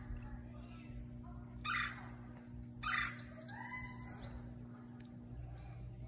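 A bird calling: two short harsh notes, then a rapid run of high chirping notes lasting about a second.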